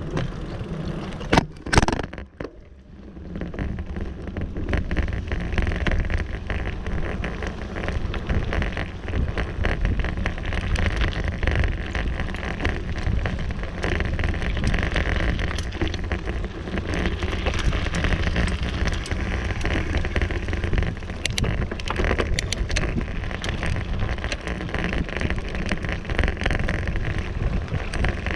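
Riding noise from a bicycle: wind buffeting the microphone over a steady rumble with tyre and trail crackle. A couple of sharp knocks near the start.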